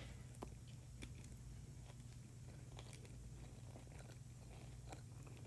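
A person chewing a mouthful of food with faint, scattered crunching and mouth clicks, over a low steady hum.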